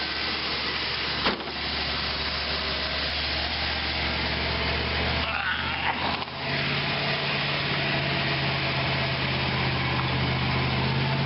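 Vehicle engine idling steadily after a jump start on a battery too weak to start it. There is a single sharp click about a second in, and around six seconds in the note shifts and settles at a higher pitch.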